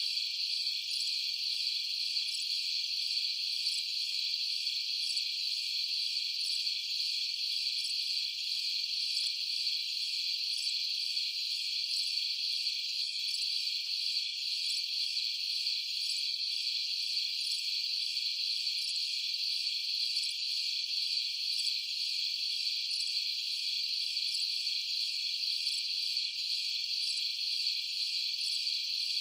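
Steady, dense chorus of crickets chirping, an unbroken high-pitched trilling with no pauses.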